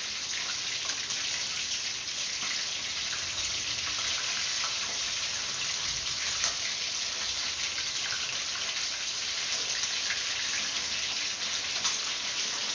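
Chicken pieces frying in hot oil in a wok: a steady sizzle with fine crackles.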